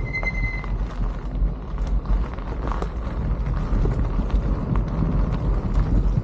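Wind rushing and buffeting over the microphone of a bicycle rolling downhill at speed, with small clicks and rattles; a high steady squeal stops under a second in.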